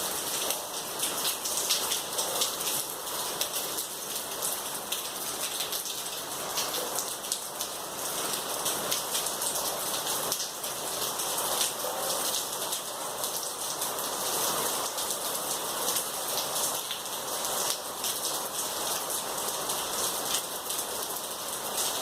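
Heavy rain falling steadily, dense patter of drops on hard surfaces.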